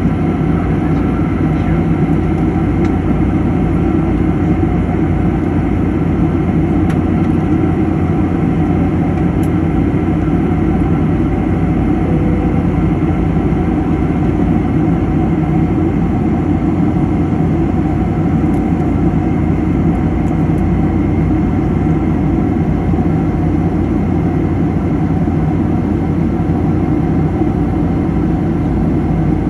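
Airliner cabin noise on the landing approach: the jet engines and rushing air make a steady low rumble, with a few faint steady tones above it.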